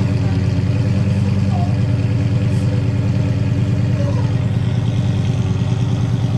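Lamborghini engine idling steadily through a newly fitted titanium slip-on exhaust, at an even, unchanging pitch.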